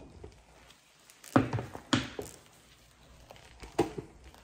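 Three sharp knocks of kitchen items being handled and set down on a countertop while a sandwich is made: the first about a second and a half in, another half a second later, and one near the end.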